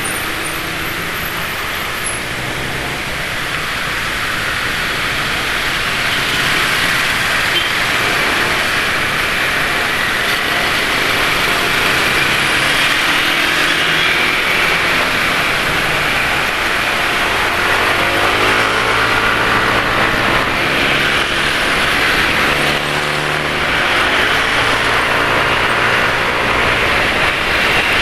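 Motorcycle engines in road traffic, heard from a moving scooter over a steady rush of road and wind noise. The engine hum wavers up and down and grows more prominent in the second half.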